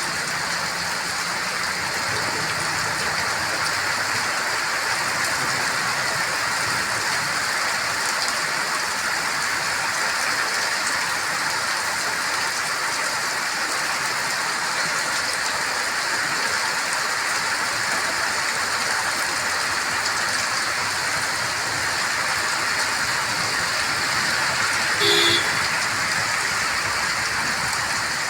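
Heavy rain falling and drumming on surfaces as a steady, even hiss. Near the end a short tonal sound briefly rises above it.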